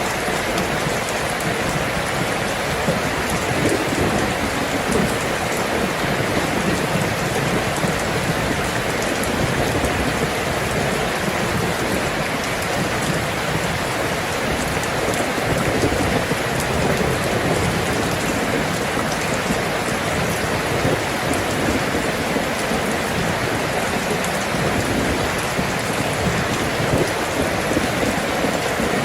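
Steady rain falling, a dense even hiss of many drops with no break or change.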